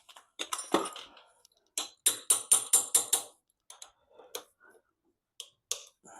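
Hand tools clicking and clinking against metal engine parts: a sharp knock about half a second in, then a quick, even run of about six clicks around two to three seconds in, and a few lighter clicks near the end.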